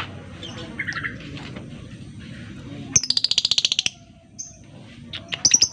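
Lovebird calling: short shrill chirps, then about three seconds in a fast rattling chatter of about twenty notes a second lasting about a second, and a few sharp loud chirps near the end.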